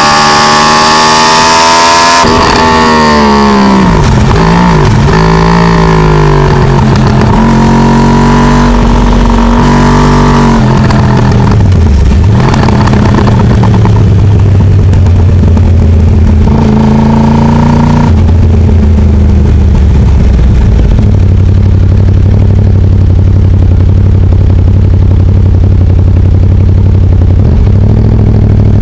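Yamaha R1's crossplane 'big bang' inline-four heard on board, loud. It revs high at first, then falls and rises in pitch several times through gear changes and throttle, and settles to a steady low-revving run over the second half.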